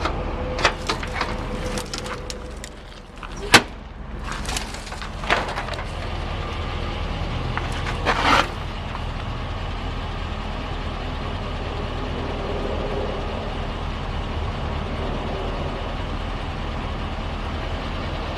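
2002 Chevrolet 2500 truck engine idling steadily. A few clicks and knocks come over it in the first half, with a sharp knock about three and a half seconds in and a short rustling burst a little after eight seconds.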